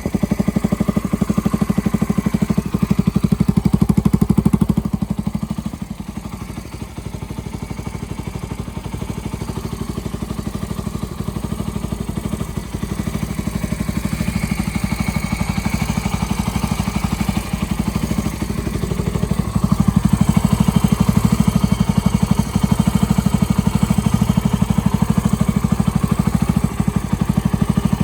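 A Suzuki Grasstracker Big Boy's single-cylinder four-stroke engine running steadily, an even stream of firing pulses. It grows quieter about five seconds in and louder again around twenty seconds.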